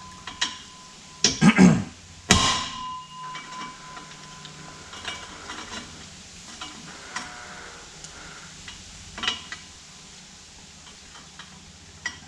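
Steel exhaust parts clanking and being struck, a few sharp metallic hits with the loudest about two seconds in leaving a brief ringing tone, then scattered lighter clinks.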